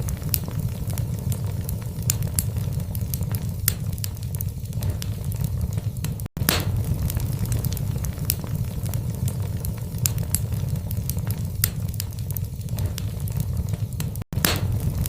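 Wood fire burning in a fireplace: irregular sharp crackles and pops over a steady low rumble of the flames. The sound cuts out for an instant twice, and each time it resumes with a louder crack.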